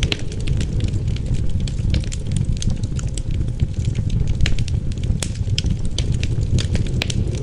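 Wood fire crackling, with frequent irregular sharp pops over a steady low rush of wind.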